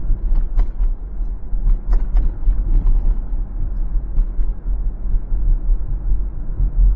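Car driving with a steady low road rumble, and a scatter of sharp creaks and rattles, mostly in the first three seconds and again about four seconds in.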